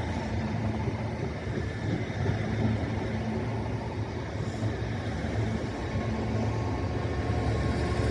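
A train running with a steady low drone and a wash of rail and engine noise.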